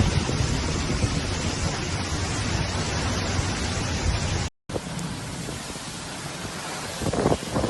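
Heavy rain pouring down, a dense steady hiss that cuts off abruptly about four and a half seconds in. A quieter rushing follows, with wind gusting on the microphone near the end.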